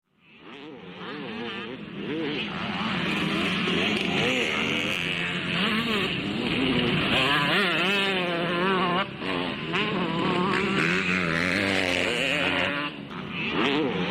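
Several motocross bikes' engines revving, their pitches rising and falling and overlapping, fading in from silence at the start.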